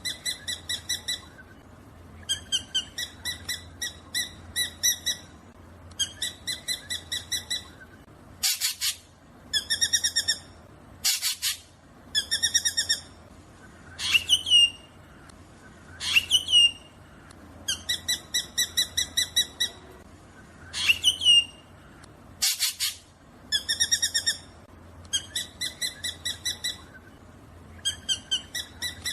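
Black drongo calling: runs of short rapid notes in phrases of a second or two, broken by a few falling, hooked whistles and three short harsh rasping calls.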